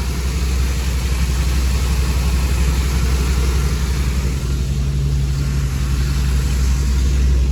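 1993 Chevrolet Suburban's 5.7-litre 350 small-block V8 running steadily at idle.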